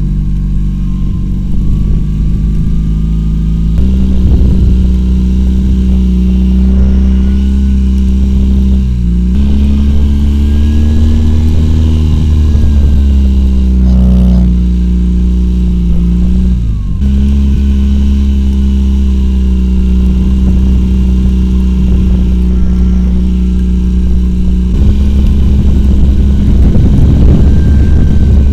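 Homemade quad bike's Oka car engine running hard under changing throttle, its note stepping up and down several times, with a brief dip about two-thirds of the way through.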